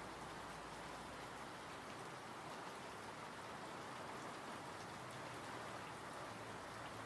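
Steady rainfall, a dense even patter of raindrops with faint scattered drop ticks.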